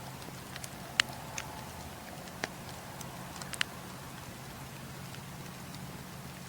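Campfire crackling: a steady low hiss and rumble with a few sharp pops, the loudest about a second in and a small cluster past the middle.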